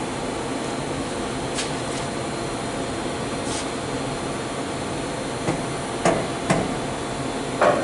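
A handful of sharp metallic knocks, spread unevenly and loudest near the end, as an exhaust pipe is knocked and worked into position under a car, over a steady shop hiss.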